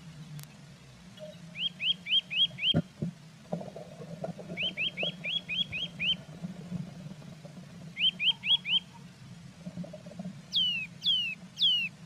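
A small songbird calling in three quick runs of short, high, arched notes, then three sharp downward-sweeping notes near the end. About three seconds in there is a single knock, followed by brief scratching.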